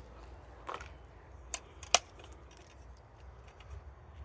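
A few sharp plastic clicks and a brief rustle from handling a bird feeder's parts, over a soft low outdoor rumble.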